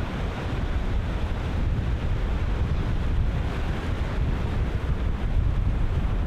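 Ocean surf breaking and washing continuously, with strong wind buffeting the microphone as a gusty low rumble.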